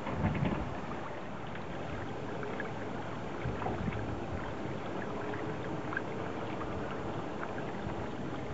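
Steady rush of wind and water aboard a small sailboat, with scattered light knocks and clicks.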